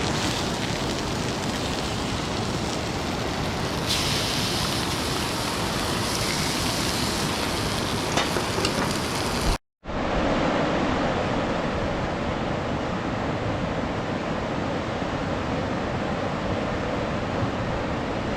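Steady rush of river rapids, a loud, even wash of water noise. About halfway through it drops out for an instant and comes back at a slightly different tone.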